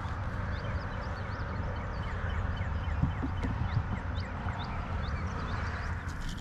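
Birds chirping, many short separate chirps, over a steady low rumble, with a couple of faint knocks about three to four seconds in.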